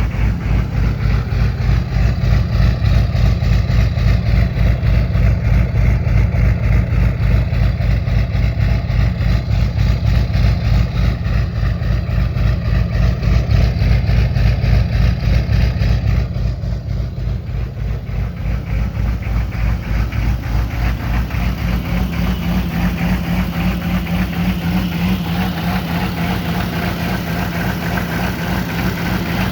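A GMC's 6.5-litre Detroit Diesel turbo diesel V8 idling with a loping, evenly pulsing idle from an aftermarket lope tune. It drops a little in loudness about halfway through, and a steady hum rises over the idle later on.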